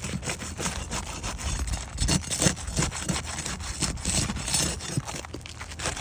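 Repeated irregular scraping and rubbing as an asphalt roof shingle is worked loose from its adhesive seal.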